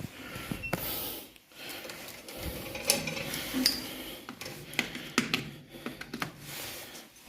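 Irregular sharp metallic clicks and short rattles of hardware being handled by hand.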